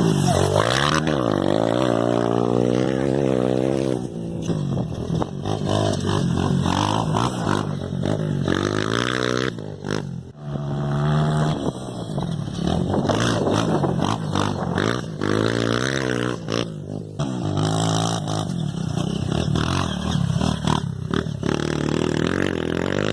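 Motocross dirt bike engines revving hard, the pitch climbing and dropping again and again as the bikes accelerate and back off.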